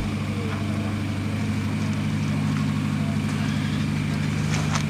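Car engine idling with a steady low hum. A couple of sharp clicks come near the end.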